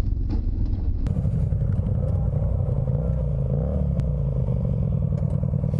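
Motorcycle engine running steadily, its pitch rising and falling a little, with a sudden break about a second in.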